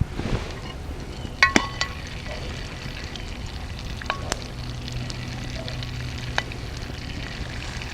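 Hot butter sizzling on cinnamon-roll dough skewers over a campfire grill grate, with small crackles and a few short metallic clinks, about a second and a half in and again around four seconds in.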